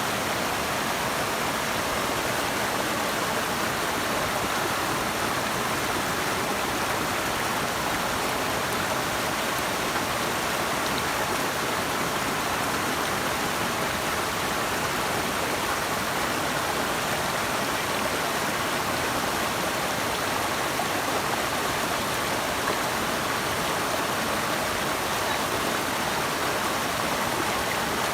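Steady, unbroken rush of running water, as from a river or waterfall, even in loudness throughout.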